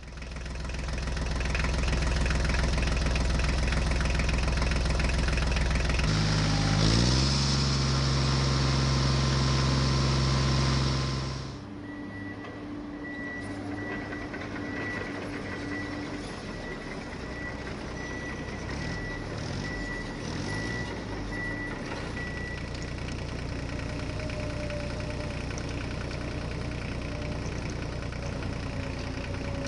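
Remote-control toy vehicle running: a steady electronic engine hum that shifts pitch about six seconds in and drops suddenly at about eleven seconds. After that a repeating high reversing beep sounds for about ten seconds over a quieter running hum.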